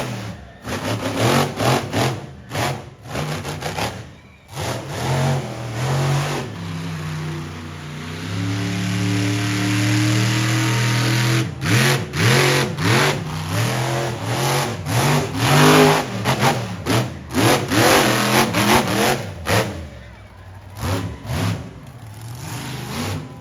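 Monster truck's engine revving hard in many quick bursts of throttle, with a steadier held stretch in the middle.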